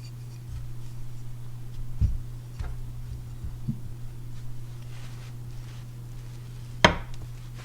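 Sharpening stones and knife being handled while moving to a finer whetstone: a few soft knocks, then one sharp click about seven seconds in, over a steady low hum.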